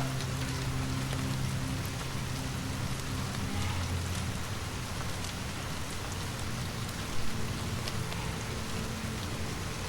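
Steady rain falling, with a fireplace crackling in scattered small ticks and one brief louder pop about seven seconds in.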